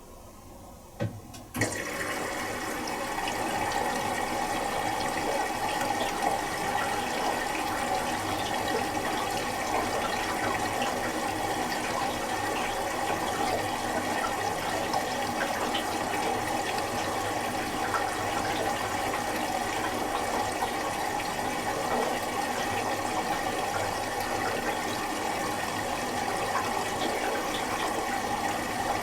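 Miele Little Giant PWM507 washing machine's water inlet valve clicking open, followed by a steady rush of water filling the drum for the final rinse.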